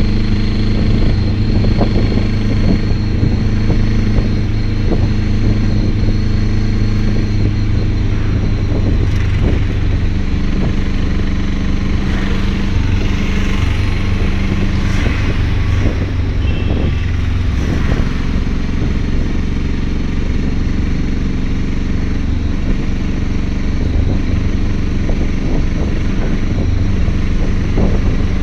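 Motor vehicle engine running steadily on the road, with road noise and occasional rattles; its low hum shifts pitch a couple of times as the speed changes.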